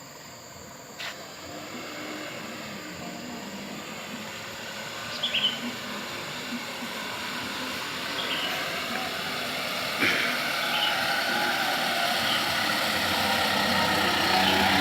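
A vehicle engine running, growing steadily louder through the stretch, with a few short high chirps and a sharp knock about ten seconds in.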